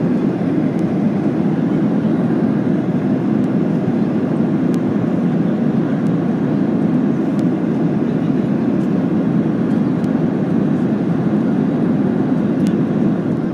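Steady cabin noise of a Boeing 737-800 in flight: the even rush of airflow and engine sound heard inside the passenger cabin, heaviest in the low-middle range, with no change.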